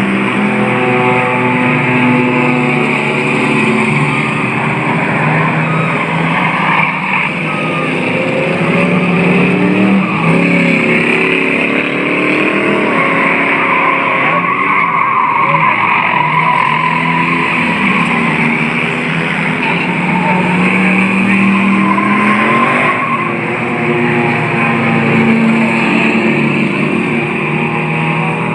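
Engines of several junk cars and trucks racing together, revving up and down in pitch against one another over a steady wash of engine and tire noise.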